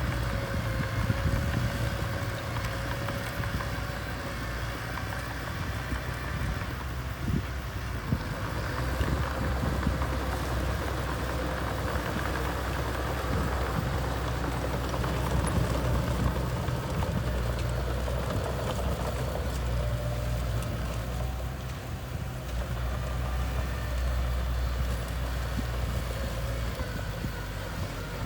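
Small bulldozer's diesel engine running steadily as the machine works.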